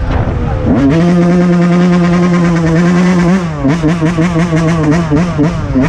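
Dirt bike engine running at a steady high pitch for a couple of seconds, then the pitch wavers up and down quickly as the throttle is worked.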